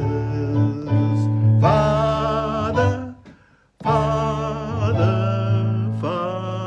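Worship-song music: a man's singing voice over instrumental accompaniment. It drops out briefly a little past halfway, then resumes.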